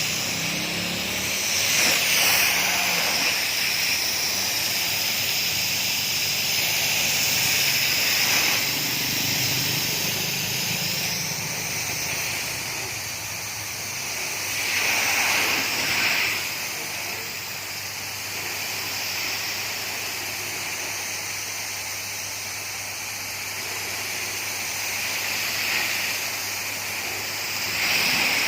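High-pressure water spray hissing steadily, swelling and easing several times as the jet is moved, over a steady low motor hum.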